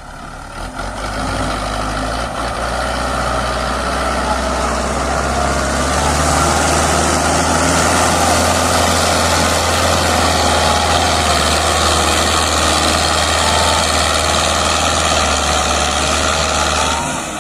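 Rusi (Belarus) 510 tractor's diesel engine running hard under load, its deep steady note building up over the first few seconds and holding, then easing off near the end.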